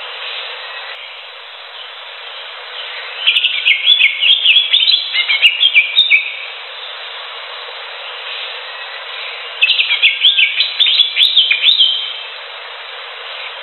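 Cucak hijau (green leafbird) singing: two bursts of rapid, varied whistled phrases, each about two to three seconds long, the first starting about three seconds in and the second near ten seconds, over a steady hiss.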